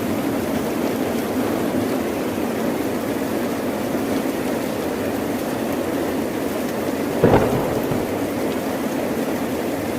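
Steady heavy rain, with a single sudden crack of thunder about seven seconds in that fades out within a second.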